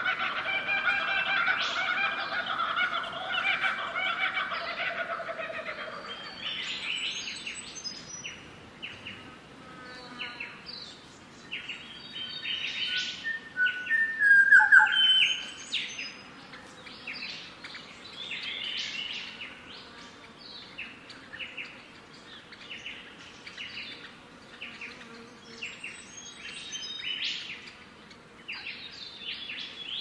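Birds chirping, many short calls in quick succession throughout. A held pitched sound with a few overtones runs over the first six seconds, and one louder call comes about fourteen seconds in.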